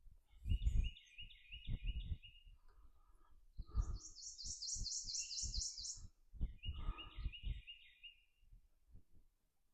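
Songbirds singing: a phrase of quick repeated notes given twice, with a higher, faster trill from a second bird in between. Scattered low knocks and rumbles sound underneath.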